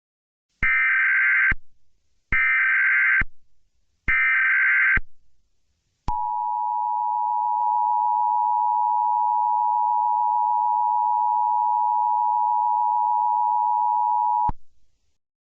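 Emergency Alert System broadcast tones. Three short, screechy SAME digital header bursts come first, each about a second long with a brief gap between them. Then the two-tone EAS attention signal is held steady for about eight seconds and cuts off sharply. Together they announce an emergency alert message.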